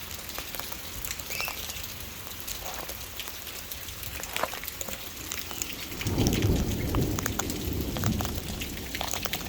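Rain falling, with sharp drips tapping throughout. About six seconds in, a low rumble of thunder swells and fades over a few seconds.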